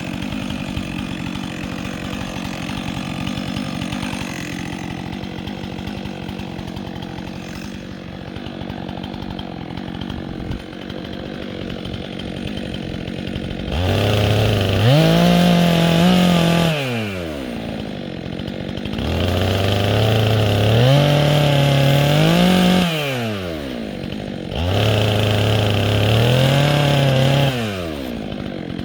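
Two-stroke chainsaw idling, then opened up to full throttle three times, each burst lasting about three seconds, its pitch rising and wavering before dropping back to idle.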